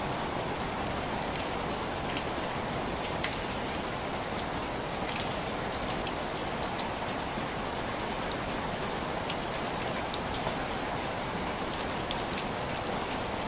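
Steady rain pattering on window glass: a constant hiss of rainfall with individual drops ticking sharply here and there.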